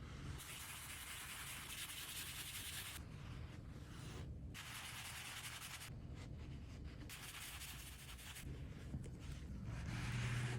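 Cloth wiping and rubbing over the leather of a handbag during cleaning. It comes as a soft scratchy hiss in several stretches, with short breaks between them.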